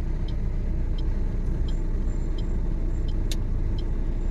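Maruti Suzuki Ertiga driving on the road, heard from inside: a steady low rumble of engine and tyre noise, with a faint regular tick about every 0.7 s and one sharper click a little after three seconds.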